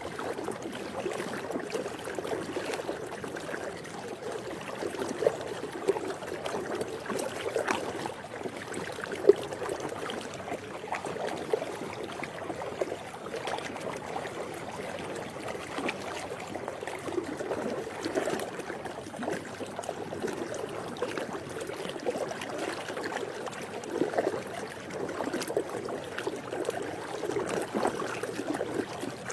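Swimming pool water lapping and sloshing continuously, with many small irregular splashes; one sharper splash stands out about nine seconds in.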